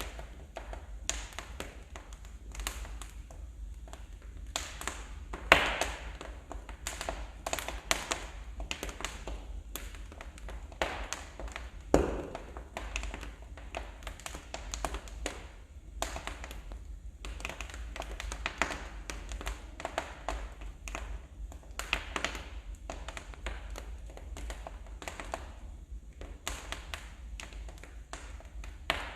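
Wood fire in a fireplace crackling, with irregular sharp pops and snaps of burning logs; two louder pops stand out, about five and twelve seconds in.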